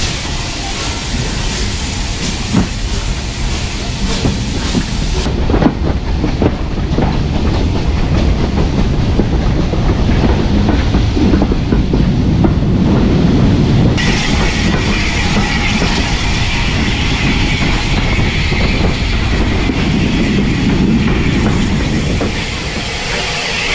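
Riding on a steam-hauled heritage train: wheels running on the rails with clicks over rail joints, and air rushing past. The noise eases off near the end as the train slows into a station.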